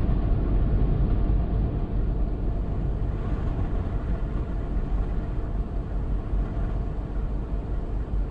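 High wind buffeting a stopped truck, heard from inside the cab as a steady low rumble.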